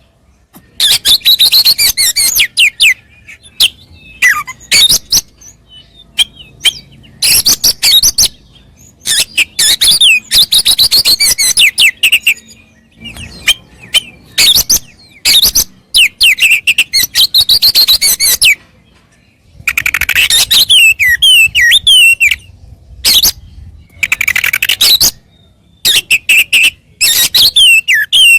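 Oriental magpie-robin (kacer) singing loudly in bursts of fast, varied, high-pitched whistles and chirps, each phrase lasting one to two seconds with short pauses between.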